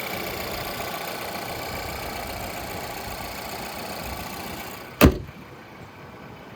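2018 Volvo XC60 T6's turbocharged and supercharged 2.0-litre four-cylinder idling after a cold start. A single sharp thump about five seconds in, after which the engine sounds quieter and more muffled.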